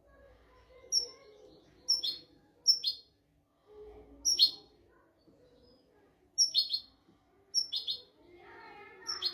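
European goldfinch singing: short, sharp high notes, each sliding down in pitch, spaced about a second apart, breaking into a quick run of notes at the very end.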